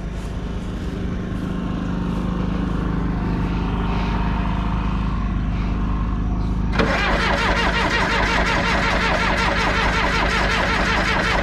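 John Deere 450C bulldozer's diesel engine running steadily, then suddenly much louder with a fast, even clatter about seven seconds in.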